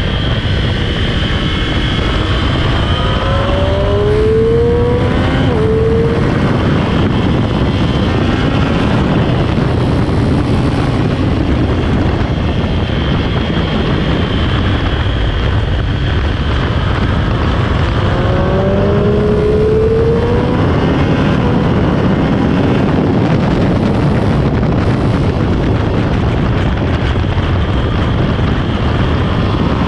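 Sport motorcycle on a stock exhaust riding hard on track, over heavy wind rush. The engine pitch climbs as it accelerates, about three seconds in and again around eighteen seconds in.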